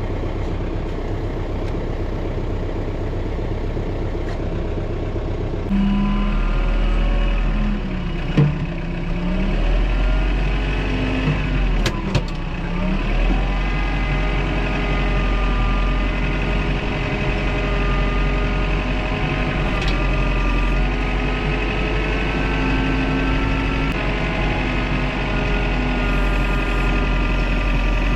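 An engine running; about six seconds in it revs up and grows louder, and its pitch sags briefly twice, around eight and twelve seconds in, as if taking load. There is a short knock about eight seconds in.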